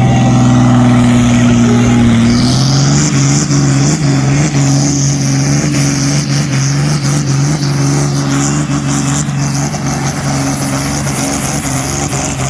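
Engine of a competition pulling machine running hard at high revs under load while it drags the weight sledge. The engine note shifts in pitch about two seconds in, then holds steady and slowly grows quieter as the machine moves down the track.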